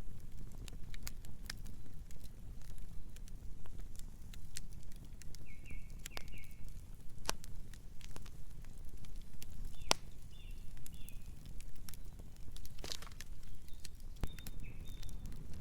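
Campfire crackling and popping, with irregular sharp snaps over a steady low rumble of the burning fire. A few short high chirps come through three times.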